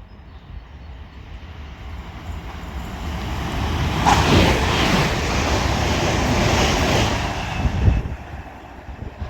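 Transpennine Express Class 397 electric multiple unit passing through at speed: the rush of wheels on rail builds, is loudest for about three seconds in the middle, then falls away.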